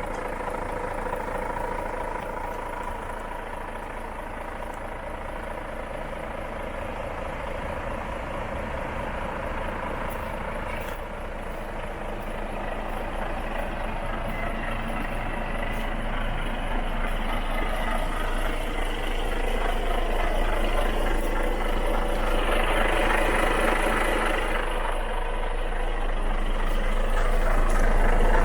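Volvo FH 460 tractor unit's 13-litre six-cylinder diesel idling steadily, growing gradually louder toward the end.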